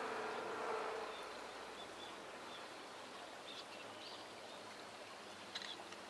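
A low rumble fades out about a second in, leaving a faint steady background hiss. Over it come a few short, thin, high-pitched bird call notes and one sharp tick near the end.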